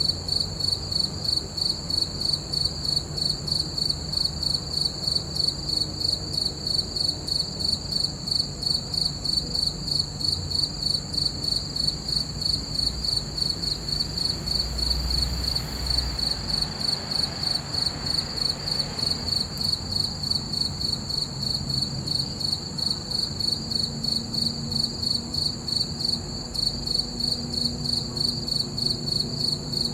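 Crickets chirping in a steady, even pulsing rhythm of a few chirps a second, with a faint low rumble underneath about halfway through.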